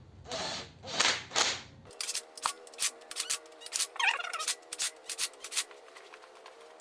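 Hand tools working on engine bolts: a few rasping strokes in the first two seconds, then a run of rapid, sharp metallic clicks.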